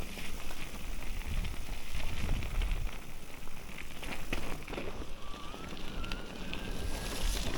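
Electric mountain bike's tyres crunching and crackling over a rough, stony trail, with wind rumbling on the microphone. A faint rising whine comes in about five seconds in.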